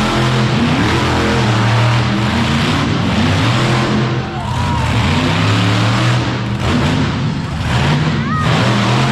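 Monster truck engine running loud and revving, its pitch rising and falling, with two short dips in level partway through.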